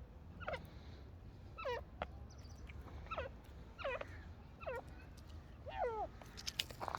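Teetars (francolins) calling: a run of short, quick notes, each sweeping downward in pitch, repeated roughly once a second, with a faint low hum behind them.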